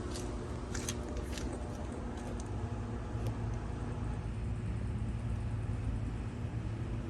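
Outdoor air-conditioner condensing units running, a steady hum of compressor and condenser fan, with a few light ticks in the first second or so.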